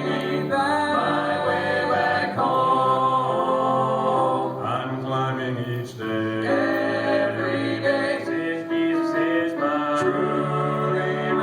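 Gospel vocal group singing in harmony, several voices holding chords that change every second or two.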